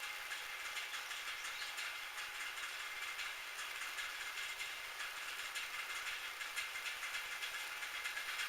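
Metal lathe running steadily: an even, high whirring noise with faint steady tones and light, irregular ticking.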